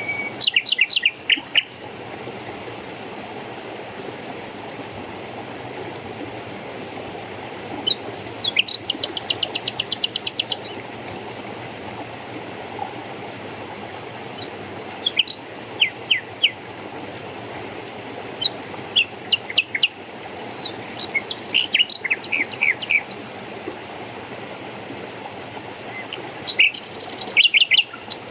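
A songbird singing in short bursts of quick, high chirps every few seconds, one of them a fast even trill, over the steady rush of a stream.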